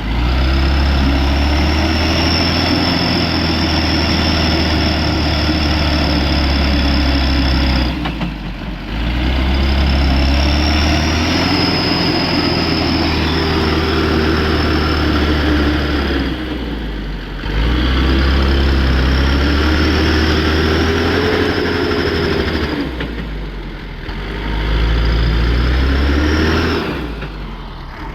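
Mitsubishi Canter light truck's diesel engine revved hard in four long surges of several seconds each, dropping back briefly between them, as the truck, bogged down on a slope, strains to climb free.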